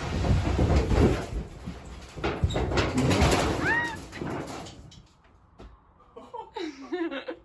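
A bathroom partition wall being wrenched and torn out of a bus interior: bursts of cracking, scraping and banging, with a short squeak about four seconds in. It then goes quieter, with faint voices near the end.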